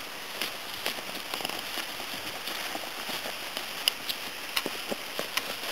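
Heavy rain falling: a steady hiss with scattered sharp ticks of drops.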